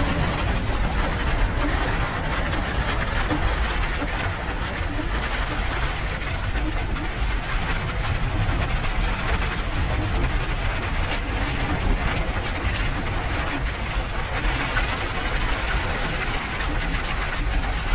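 Steady rain noise with a deep rumble underneath.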